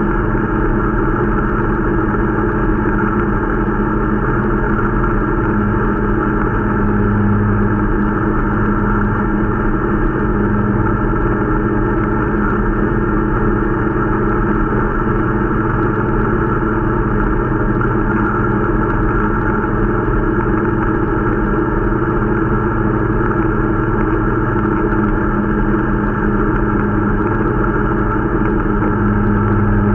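Irbis Dingo T125 snowmobile's 125 cc four-stroke engine running steadily under way during its break-in. The engine speed rises slightly a few times.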